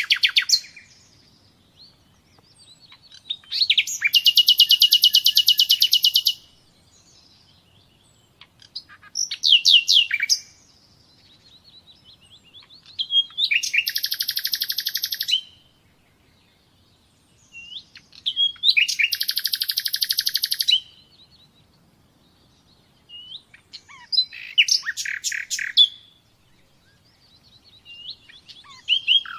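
A songbird singing: repeated phrases of fast, high trilled notes, a new phrase every four to five seconds, each lasting one to three seconds, with short pauses between.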